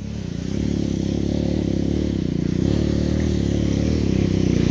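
Motorcycle engine running under load on a rocky uphill climb, growing louder about half a second in and then holding steady.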